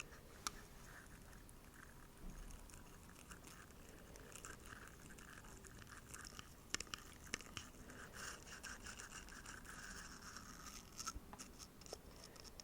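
Quick, steady brushing of small bristles close to the microphone, a soft scratchy swishing with a few light clicks.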